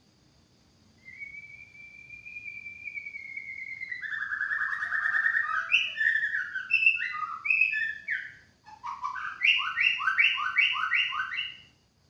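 White-rumped shama singing: a long whistle that rises and then holds, then a run of varied, quickly changing phrases, then a series of about seven evenly repeated notes.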